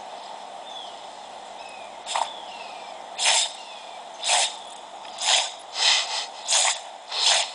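Dog sneezing in a rapid fit, about seven sharp sneezes roughly a second apart, starting about two seconds in.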